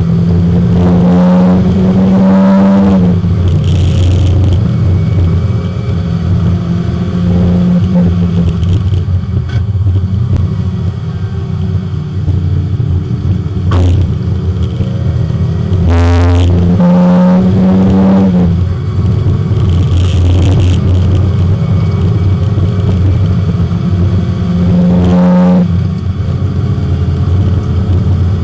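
Porsche 924 race car's four-cylinder engine heard from inside the cabin under hard acceleration on track. The revs climb and drop several times as it changes gear, with a couple of short knocks about halfway through.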